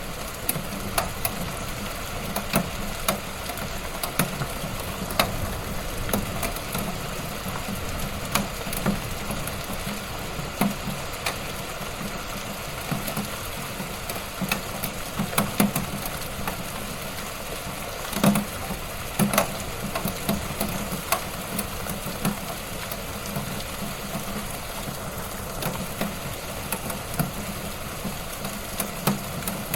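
Wood fire burning in a fireplace: a steady low rumble and hiss with frequent sharp crackles and pops, several louder pops about halfway through.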